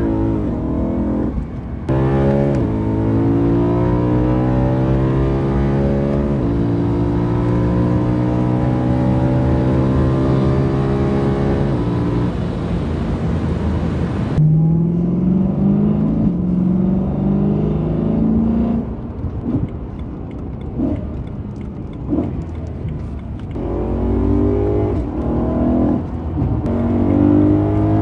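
BMW E92 M3's S65 V8 breathing through a carbon intake plenum, heard from inside the cabin, accelerating hard through the gears. The revs climb and fall back at each of several upshifts, with a lighter, off-throttle stretch in the middle before it pulls again.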